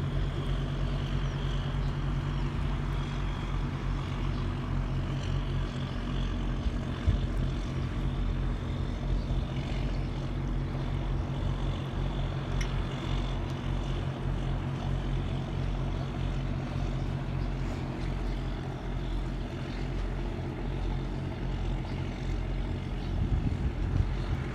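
Tugboat's diesel engines running under tow with a steady, low, pulsing drone.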